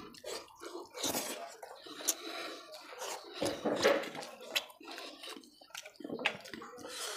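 A person chewing a mouthful of rice and curry close to the microphone: wet, irregular mouth sounds of chewing and smacking.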